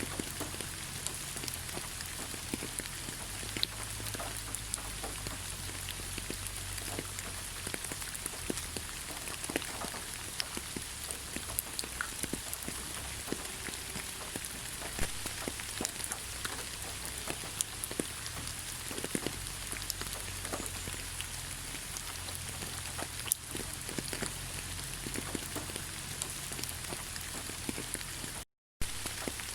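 Steady rain falling in a forest: an even hiss with many separate drops ticking close by. The sound cuts out completely for a split second near the end.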